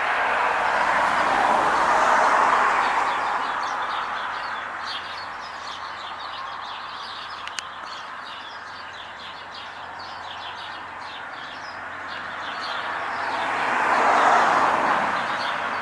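Small birds chirping steadily. Two vehicles pass, one swelling and fading in the first few seconds, another rising near the end.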